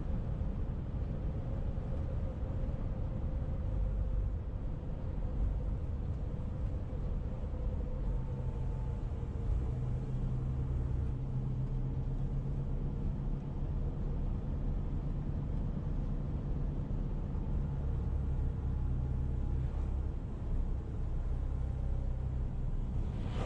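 A vehicle running steadily, a low engine and road rumble with a faint tone that slowly drops in pitch.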